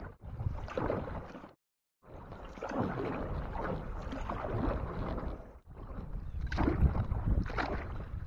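Canoe out on a lake: water sounds around the hull and paddle with wind buffeting the microphone. The sound stops dead twice, about 1.5 s and 5.5 s in, as short clips are cut together.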